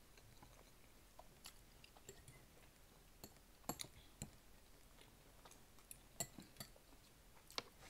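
Faint chewing of food, with scattered soft clicks and a few sharper ones through the middle and near the end.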